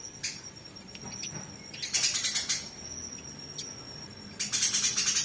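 Eurasian tree sparrows chattering in fast, harsh bursts, the squabbling calls of sparrows fighting. There is a short burst about two seconds in and a longer one near the end, with a thin steady high whistle between them.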